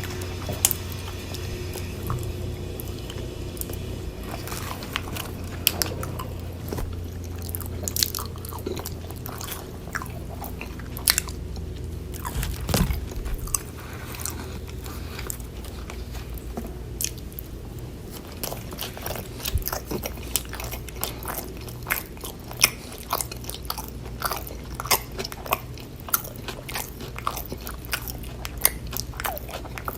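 Close-miked chewing and biting of food: many small crisp crunches and wet mouth clicks in an uneven stream, over a steady low hum.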